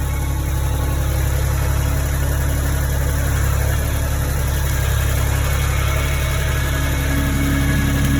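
Farm tractor engine running steadily with an even low rumble.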